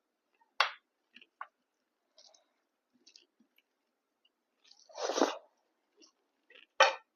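Close-miked eating sounds from chewing pork fry with rice: scattered short wet smacks and crunches. A longer, louder noisy sound comes about five seconds in, and a sharp smack near the end.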